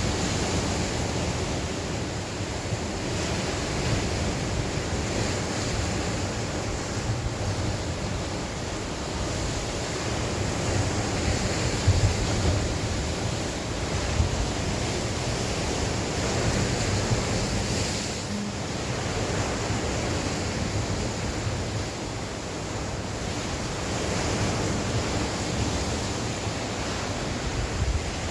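Sea waves washing ashore in a steady wash of surf that swells and ebbs every few seconds, with gusts of wind buffeting the microphone.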